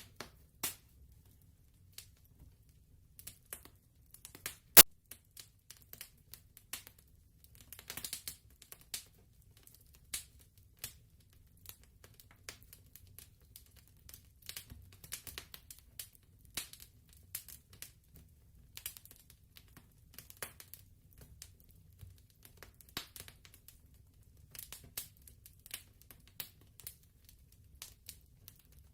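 Fireplace crackling: scattered irregular pops and snaps over a faint low rumble, with one sharp loud pop about five seconds in.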